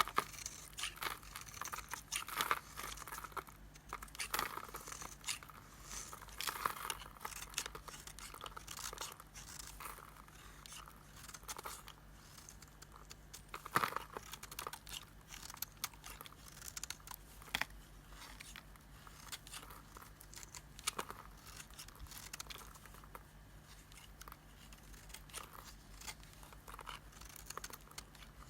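A blade cutting and shaving an old, dried-out bar of Nissan soap: continuous crisp crunching and scraping with many small cracks, and one sharper crack about fourteen seconds in.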